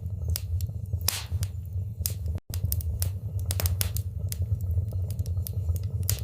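Wood fire in a fireplace crackling: irregular sharp pops and snaps over a steady low rumble. The sound cuts out for a moment a little over two seconds in.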